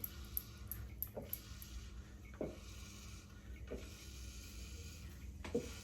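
A person drinking water in gulps, one short swallow roughly every second or so, faint.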